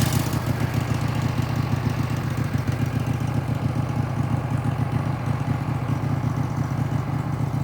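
Engine of a Wood-Mizer LT15 portable sawmill running steadily at an even pitch. A higher hiss fades out just as it begins.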